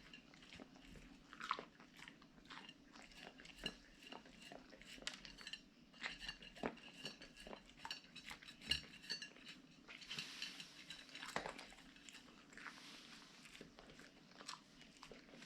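Siberian husky chewing and crunching its food from a bowl: a faint, irregular run of crunches and bites mixed with light clinks of the dish.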